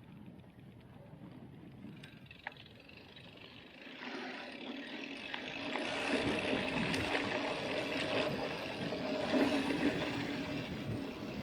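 Mountain bike rolling over a dirt road: tyre crunch and frame and chain rattle, getting louder about four seconds in and again a couple of seconds later as the bike picks up speed.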